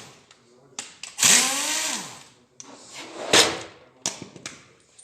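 Handheld power tool spinning a bolt out of the engine, whining up and back down in pitch in one short run, followed by a few metallic clicks and knocks of tool and parts being handled.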